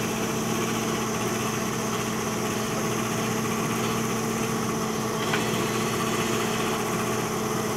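A JCB backhoe loader's diesel engine running steadily at idle, with one brief click about five seconds in.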